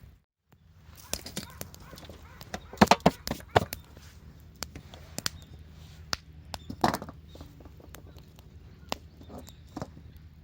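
Irregular knocks and clatters of wood being handled, loudest in a cluster about three seconds in and again about seven seconds in, over a steady low hum.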